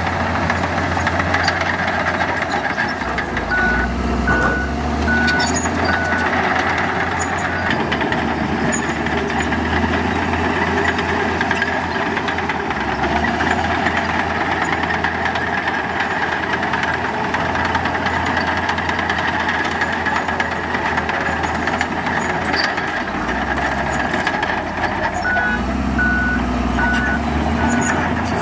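Heavy diesel construction machinery running steadily, its engine note swelling and easing with load. A reversing alarm beeps about twice a second for a few seconds, a few seconds in, and again near the end.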